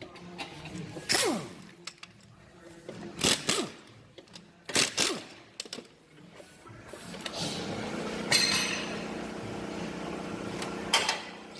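Sharp metal clanks of tools and parts during engine-mount removal, several in the first half, each with a short ring that falls in pitch. From about seven seconds a steady mechanical hum sets in.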